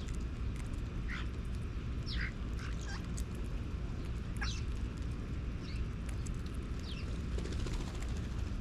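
Wild birds calling: a scattering of short, quick calls that sweep downward in pitch, about seven in all, over a steady low rumble.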